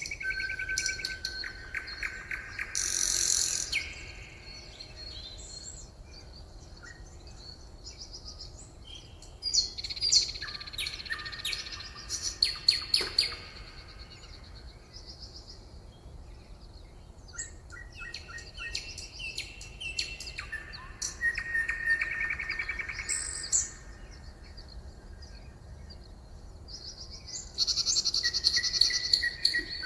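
Songbirds singing and calling: rapid trills and chirps that come in several bursts, with quieter gaps between them.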